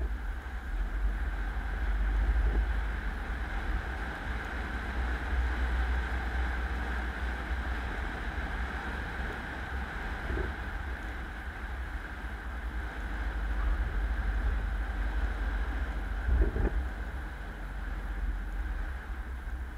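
Car driving: a steady low rumble of road and wind noise with a hiss above it, picked up by an action camera, with a few brief low knocks from bumps in the road.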